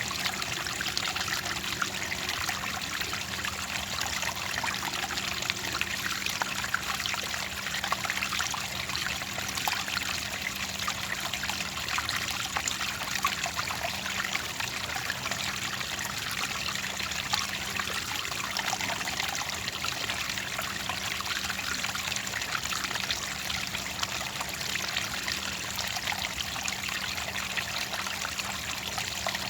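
Clear running water trickling steadily, an even bubbling splash with no pauses or changes.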